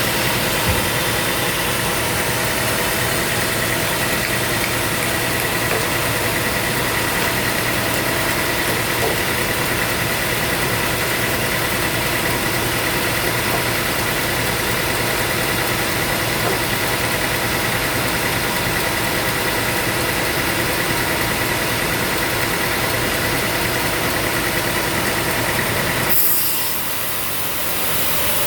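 Sawmill machinery running steadily, a dense mechanical noise with a high steady whine; the sound changes abruptly about 26 seconds in, the whine dropping out.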